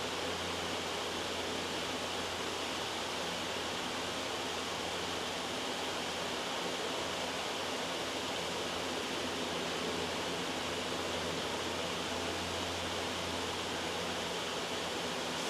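Steady white noise, an even hiss that holds unchanged throughout.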